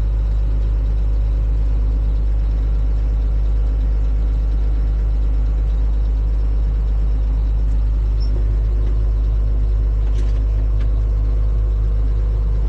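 Farm tractor engine running steadily, a loud, even low rumble with no change in speed.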